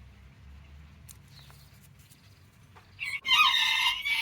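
A rooster crows once, a high-pitched call lasting about a second and a half, starting about three seconds in after a quiet stretch with a few faint ticks.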